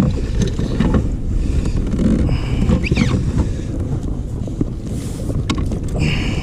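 Wind buffeting the microphone, a steady low rumble, with a few faint clicks and knocks over it.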